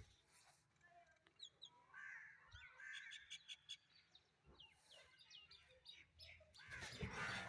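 Faint outdoor bird calls: short, high, falling chirps and a quick run of repeated notes, with a louder burst of sound near the end.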